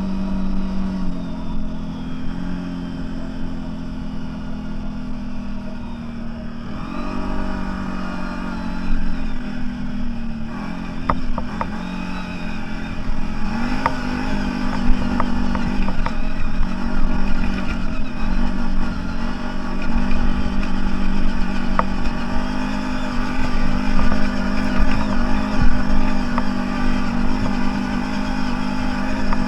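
CFMoto 1000's V-twin engine running under way off-road, mostly at a steady speed, its note dropping and climbing again a couple of times, with a few sharp clicks and knocks.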